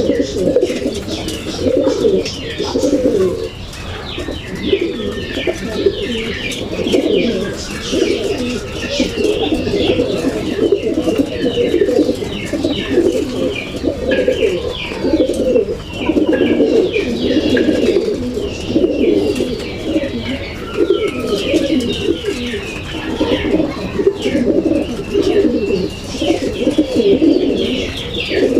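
A loft full of racing pigeons cooing, many birds overlapping continuously, with scattered wing flutters, chirps and scrabbling.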